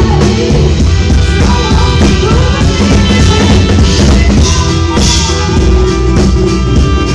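Live rock band playing an instrumental passage with no vocals: full drum kit and bass under guitar, with cymbal crashes about four and five seconds in.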